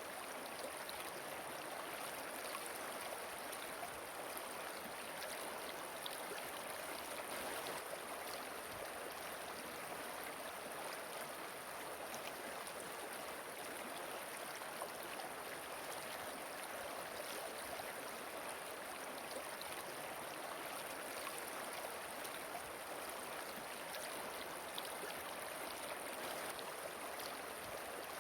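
Running river water rushing steadily, with faint scattered splashes.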